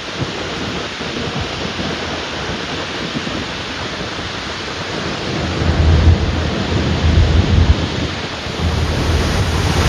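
Steady rush of wind and water on a motorboat under way, with heavy low wind buffeting on the microphone from about five and a half seconds in.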